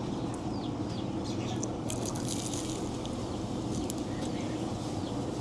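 Outdoor ambience: a steady low hum with small birds chirping on and off, and a brief rustling noise about two seconds in.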